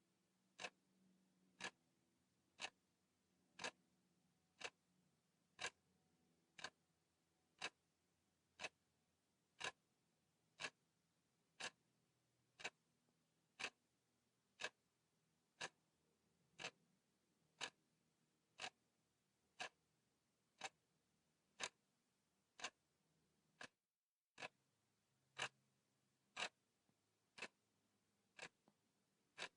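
Clock ticking steadily at one tick a second, with a momentary silent gap about three quarters of the way through.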